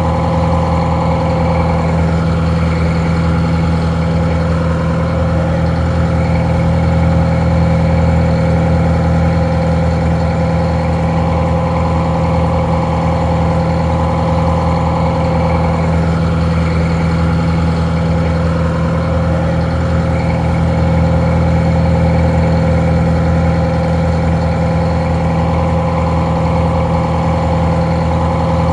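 Detroit Diesel 4-71, an inline four-cylinder two-stroke diesel, idling steadily: a constant low drone with a steady higher tone over it.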